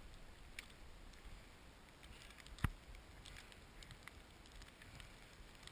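Faint scuffing with scattered small clicks, and one sharp knock about two and a half seconds in.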